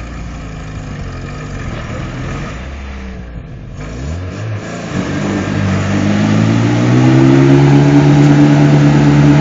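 Toyota's engine revved hard as it spins its 31-inch Super Swamper Bogger mud tires in a mud hole. The revs climb about halfway through and then hold high and loud.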